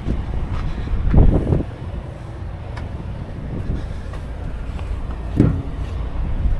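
Wind buffeting the microphone, a steady low rumble with irregular louder gusts, the strongest about a second in.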